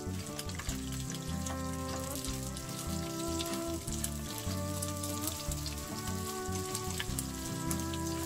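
Small dried anchovies and shishito peppers sizzling and crackling in an oiled nonstick pan as they are stir-fried. Background music with a stepping bass line plays throughout.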